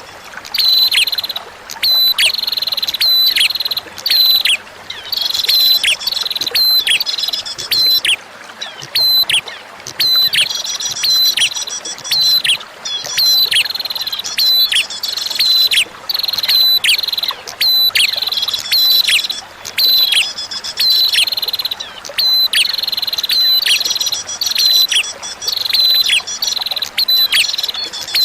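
Prinia (prenjak) song: bursts of rapid, high chirps with quick downward-sweeping notes, repeated every couple of seconds with short pauses between, over a steady trickle of running water.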